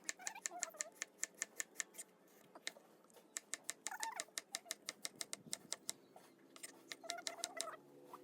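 Runs of quick, sharp taps at about six a second, with a few short high cries between the runs.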